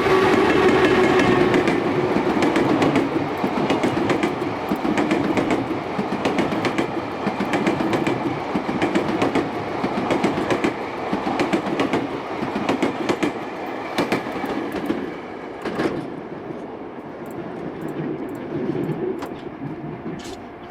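Freight train passing on the Tokaido line, its wagon wheels clattering over rail joints in a steady clickety-clack over a running rumble that fades as the train moves away. A motor or wheel tone sounds near the start.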